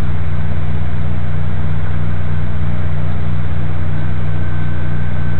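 Steady running noise inside a train carriage: an even rumble with a strong, unchanging low hum.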